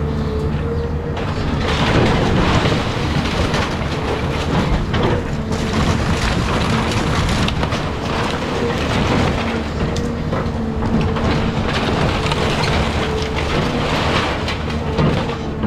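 Caterpillar 323 excavator's diesel engine running steadily under load, with continuous crunching and clattering of debris as the machine breaks up a house.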